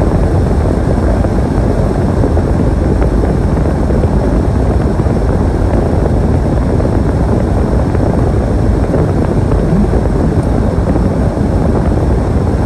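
Snowstorm wind blowing across the microphone: a loud, steady, low rumble.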